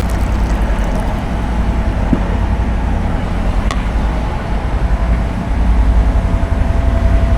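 Boat engine running steadily: a low, even rumble with a hiss over it, and a single faint click about halfway through.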